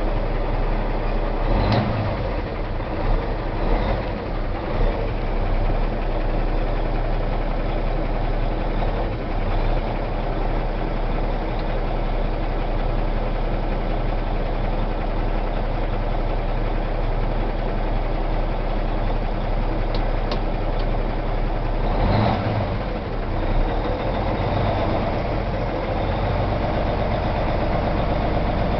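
Cummins diesel engine of a 2006 International 9400 truck idling steadily, with a few brief louder moments.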